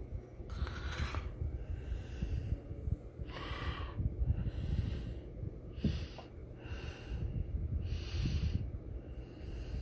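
Breathing close to the microphone: a breathy rush about once a second, over a low rumble.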